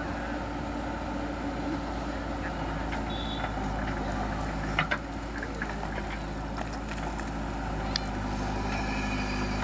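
Heavy diesel machinery engine running steadily, with a few sharp clanks about halfway through and again near the end.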